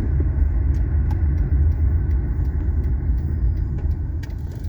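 Steady low rumble of a car driving slowly: engine and tyre noise heard from the moving vehicle.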